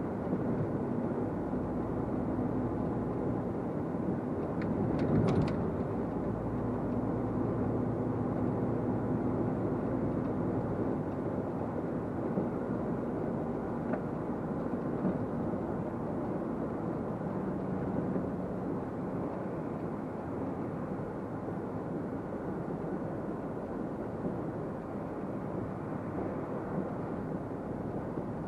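Truck engine and road noise heard from inside the cab, a steady drone that rises and falls slightly with the driving. A brief cluster of clicks and a louder swell come about five seconds in.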